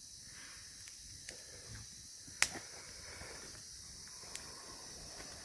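Wood campfire crackling faintly, with a sharp pop about two and a half seconds in and a smaller one near the end, over a steady high hiss.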